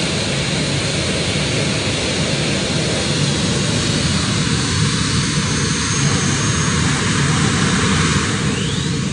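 A competition pulling tractor's engine running flat out in a loud, steady blare during a pull.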